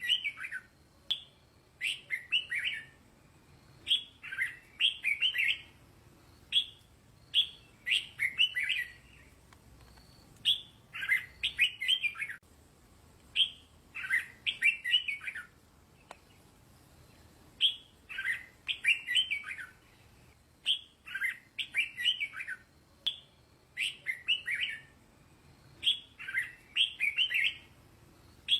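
Red-whiskered bulbul singing: short, bright warbled phrases of several quick notes, repeated every one to three seconds with brief pauses between them. This is the 'teacher bird' song used for training young bulbuls to sing.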